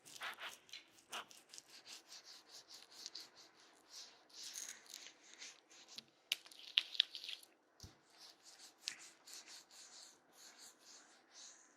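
Fingers rubbing and scratching close against a binaural microphone's ears in ear-massage ASMR: a quick run of short scratchy strokes, with a few sharper clicks a little past the middle.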